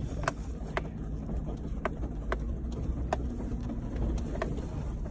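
Vehicle engine running with a steady low rumble, heard from inside the cab. Sharp ticks fall at irregular intervals over it.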